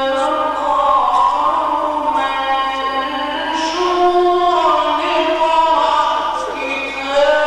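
A male reciter chanting the Quran in the melodic mujawwad style, holding long ornamented notes that slowly bend and glide in pitch.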